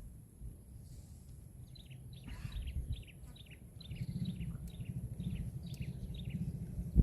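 A bird calling repeatedly: a run of short, falling chirps, two or three a second, starting about two seconds in, over a low rumble.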